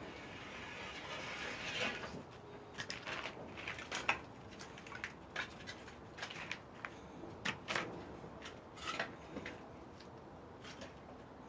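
Pine firewood in a wood-fired kiln, with irregular sharp cracks and pops. A rush of noise swells over the first two seconds.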